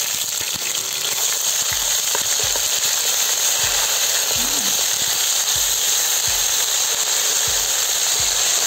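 Ginger-garlic paste and fennel seeds sizzling in hot oil in a kadai, a steady frying hiss. From about two seconds in, soft low thumps come about twice a second as a wooden spatula stirs the paste.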